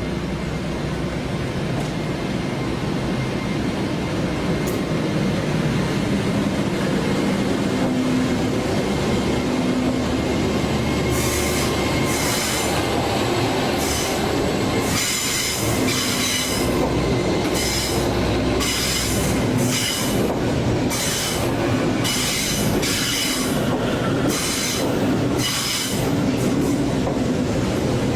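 Passenger train running past on the rails with a steady rumble. From about eleven seconds in come short, high-pitched bursts of wheel squeal, repeating roughly once a second for the rest of the pass.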